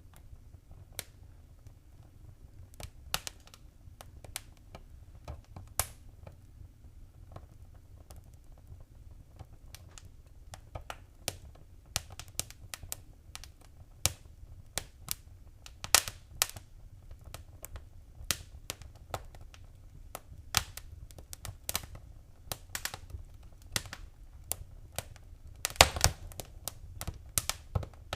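Wood fire crackling: irregular sharp pops and snaps over a low steady rumble, sparse at first and busier in the second half, with a cluster of the loudest pops near the end.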